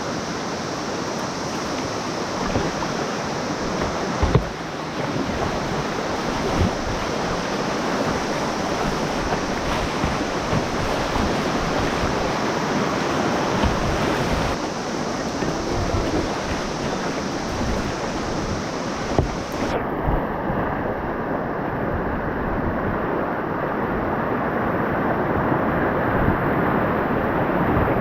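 River water rushing over rapids, heard close from a kayak as a steady roar, with a couple of short knocks. About twenty seconds in the high hiss drops away suddenly.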